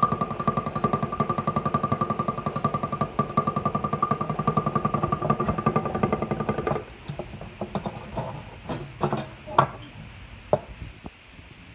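Free-piston Stirling engine running with a fast, even knocking of its piston and a ringing tone over it, then stopping abruptly about seven seconds in. A few scattered clicks and knocks follow.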